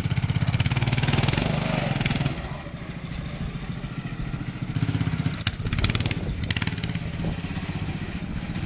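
Homemade motorcycle engine running under throttle, loud for about two seconds, then dropping off and picking up again about five seconds in.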